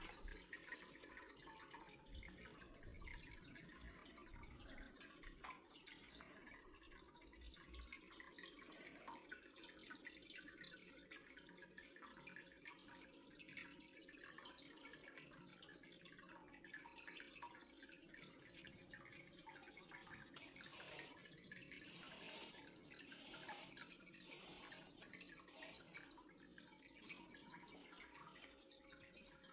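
Near silence with faint water dripping.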